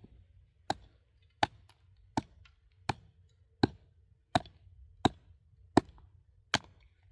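A hand tool striking rock in a steady rhythm: nine sharp blows, about three-quarters of a second apart.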